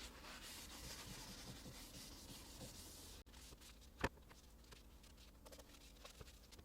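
Faint, steady rubbing on a surface for about three seconds, then one sharp tap or knock about four seconds in.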